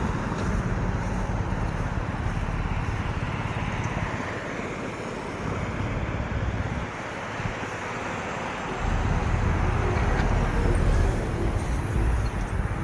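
Road traffic noise: vehicles driving past, with a heavy low rumble that swells about nine seconds in and falls away near the end.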